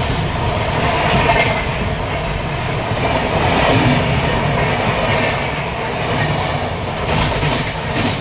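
A vehicle in motion: a loud, steady rumble with clatter.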